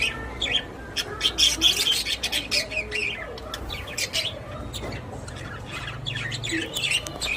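Budgerigars chirping and chattering in rapid, short high-pitched notes, busiest in the first few seconds and again near the end.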